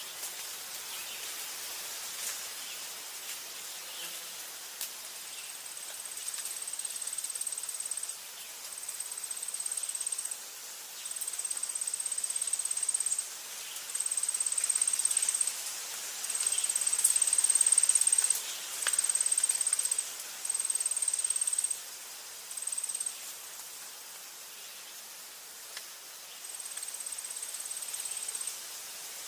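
An insect trilling in high, buzzing phrases of one to three seconds, separated by short gaps, over a soft steady hiss of forest ambience with a few faint ticks.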